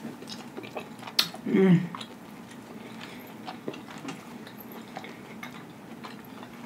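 Close-miked chewing with the mouth closed: soft, scattered mouth clicks, a sharper click about a second in, then a brief hummed voice sound just after.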